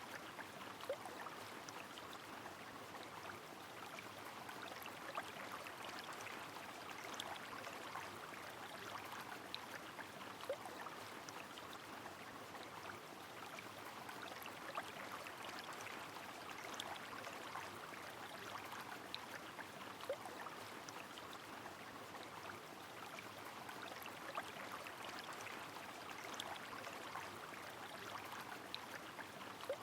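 Rain falling with a river flowing: an even, steady rush of water, with scattered single drops ticking now and then.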